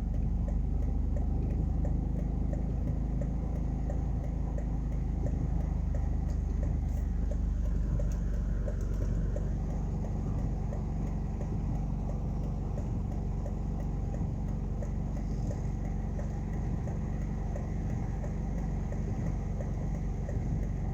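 Steady low rumble of a car engine idling, heard from inside the cabin. A faint, even ticking runs over it through the first half.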